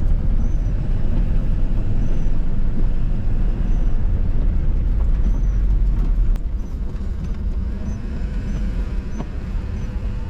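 Salt truck running on the road: a steady low engine and road rumble that drops in level about six seconds in. Faint short high chirps repeat every second or so.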